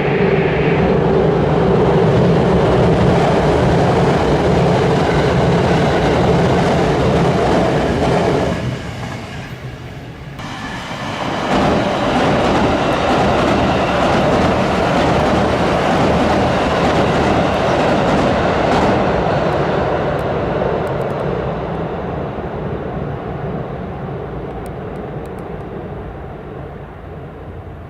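A train crossing a railway bridge, loud and steady, drops away suddenly about nine seconds in. The train sound builds back up about two seconds later, then slowly fades out toward the end.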